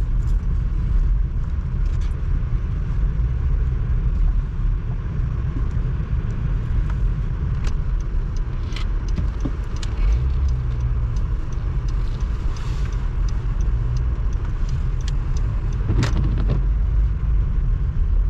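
Car driving on snowy roads, heard from inside: a steady low rumble of road and engine noise, with a few sharp clicks scattered through it and a louder one near the end.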